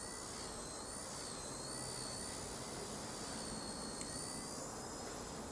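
Blade Nano CP S micro RC helicopter's motor and rotor running: a high-pitched whine that wavers slightly in pitch over a steady rotor hiss.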